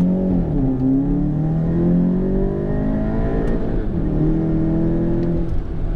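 MK7 Volkswagen GTI's 2.0-litre turbocharged four-cylinder, on a Cobb Stage 3 tune with a 3-inch catless downpipe, accelerating hard. The engine note climbs steadily, drops at a gear change about four seconds in, then climbs again.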